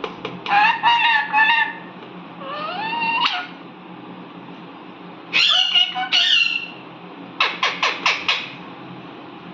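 Indian ringneck parrot calling: a run of short pitched calls at the start, a rising whistle about three seconds in, louder harsh calls between five and six and a half seconds, and a quick string of short calls around eight seconds.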